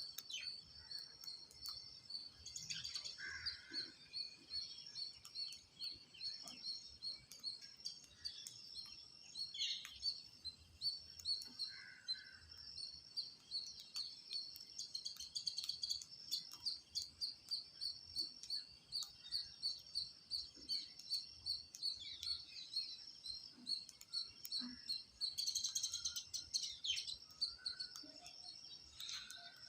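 Birds chirping: rapid, high-pitched chirps repeating steadily, several a second, with a few louder calls mixed in.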